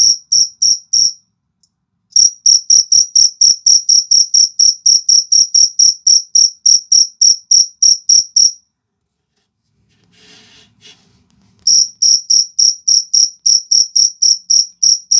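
A male field cricket kept as a fighting cricket (jangkrik jago) calling close up: loud, high, evenly spaced chirps at about four a second, in runs broken by pauses of a second or more.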